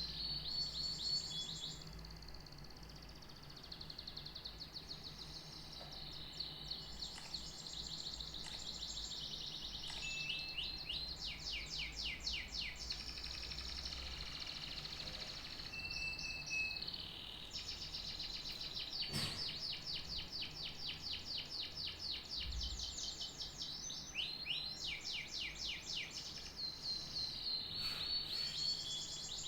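Canary singing a long, continuous song of fast trills and rolls, one run of repeated notes after another. A low steady hum lies underneath, and a single sharp click comes about two-thirds of the way through.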